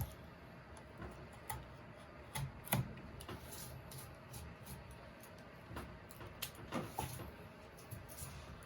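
Hand wood carving: a carving tool cutting and tapping into wood, giving scattered, irregular sharp clicks and knocks, a few of them louder.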